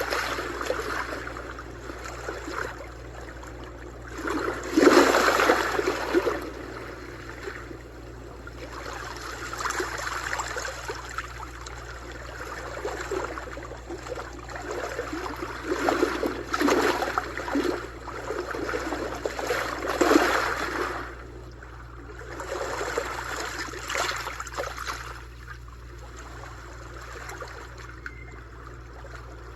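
Ocean waves breaking and washing up the shore, swelling and falling back every few seconds, loudest about five seconds in and calmer near the end.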